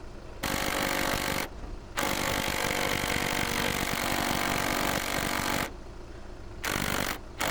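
12-volt cordless impact driver hammering as it drives screws, in bursts: a burst of about a second, a long run of nearly four seconds, then a short burst and another starting near the end.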